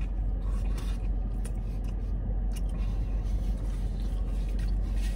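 Steady low rumble of a car idling, heard inside the cabin, with a few faint clicks of chewing on a burrito.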